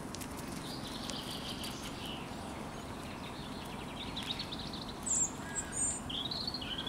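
Small birds chirping and trilling now and then over a steady low outdoor hum, with the loudest calls near the end.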